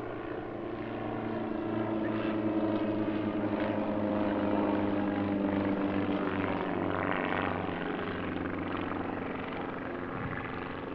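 Several Druine D.31 Turbulent light aircraft flying past, their small 30 hp Volkswagen engines and propellers droning in overlapping tones. The drone grows louder over the first couple of seconds, then eases a little.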